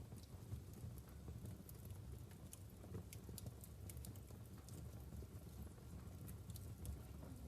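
Wood fire burning in a fireplace, crackling: many small, irregular sharp pops and snaps over a low steady rumble.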